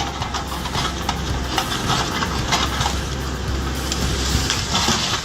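A heavy machine's engine running with a steady low drone, with irregular knocks and clatters on top.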